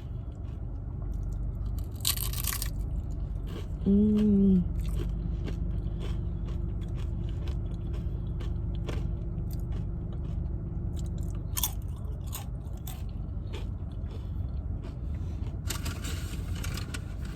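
Tortilla chips being bitten and chewed close to the microphone, a run of crunches. About four seconds in there is a short pitched hum, the loudest moment, and there are brief rustles shortly before it and near the end.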